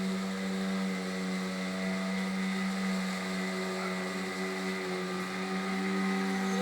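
Motorboat engine running at a steady, unchanging speed, a constant hum.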